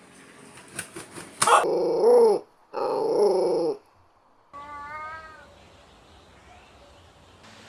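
Cat meowing: two loud, drawn-out meows about a second apart, then a fainter, wavering meow.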